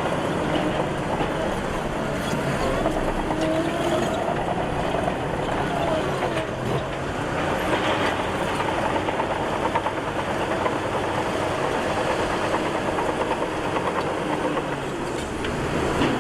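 Crawler bulldozer working: its diesel engine runs steadily under load while the steel tracks clank and rattle continuously.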